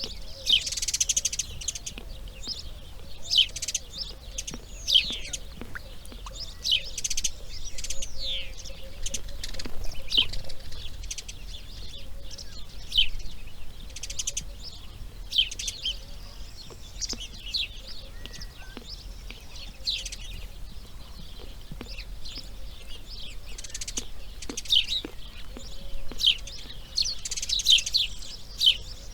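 Birds chirping: many short, high calls and quick downward-sweeping notes, one or two every second or so, over a faint low rumble.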